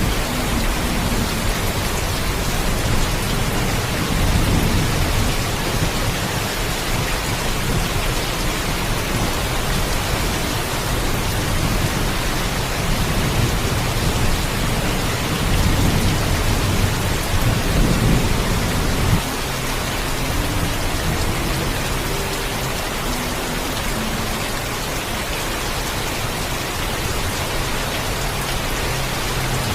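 Steady heavy rain with low rolling thunder. The thunder swells twice, briefly about four seconds in and again for several seconds from about fifteen seconds, and drops away sharply a little past halfway.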